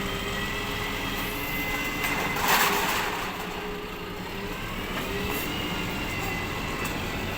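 Recycling collection truck running with a steady mechanical whine that rises slightly near the end, and a short burst of hiss about two and a half seconds in.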